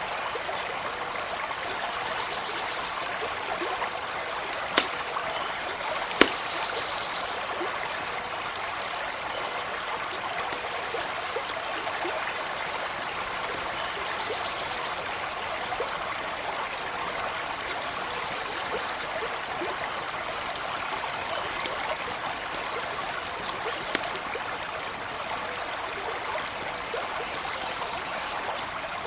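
Creek water running and babbling steadily, with a campfire crackling over it in scattered small clicks; two sharp pops about five and six seconds in are the loudest moments.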